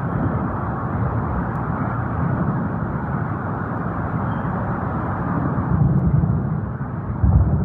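Steady low rumble with a noisy hiss, swelling about six seconds in, then a brief heavier low thump near the end. It is presented as a recording of the mysterious booms, or skyquakes, heard over Los Angeles.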